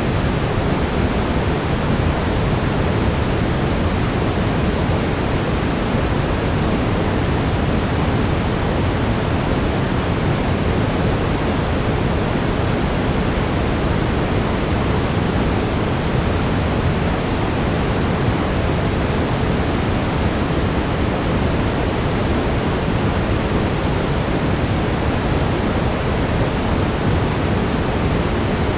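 Steady brown noise: an even, unchanging rushing hiss weighted toward the low end, like a distant waterfall.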